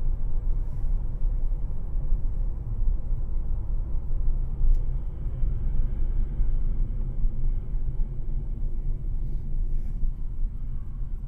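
Steady low rumble of a moving vehicle: engine and road noise with no distinct events.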